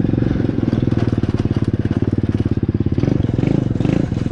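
Pit bike engine running steadily, its firing pulses coming quickly and evenly.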